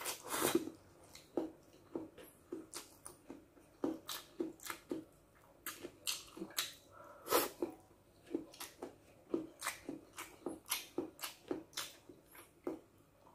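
Close-miked eating sounds of a man eating stir-fried noodles with his fingers: a slurp of noodles at the start, then wet chewing and lip smacks, about two to three a second.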